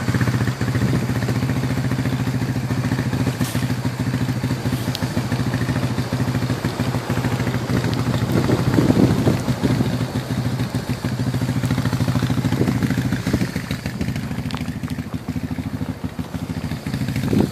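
An engine running steadily with an even low hum and a slight regular flutter.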